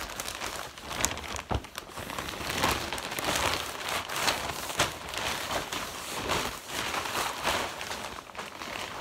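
Packaging being handled and unwrapped by hand, crinkling and rustling with many small irregular crackles.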